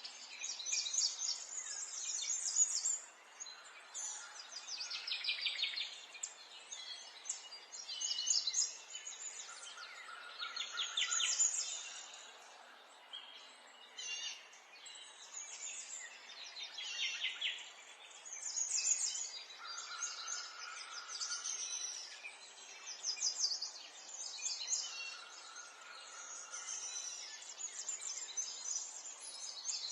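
Several small songbirds singing and chirping at once, in overlapping high-pitched phrases with quick trills and a few longer held notes, over a faint steady hiss of background noise.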